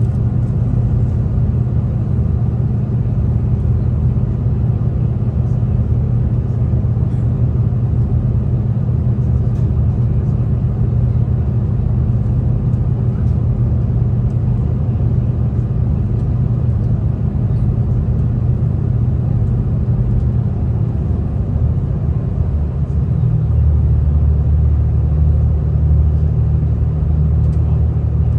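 V/Line diesel train running along the line, heard from inside the carriage: a steady low rumble of engine and wheels on track. About three-quarters of the way through the engine note changes, dropping lower and getting a little louder.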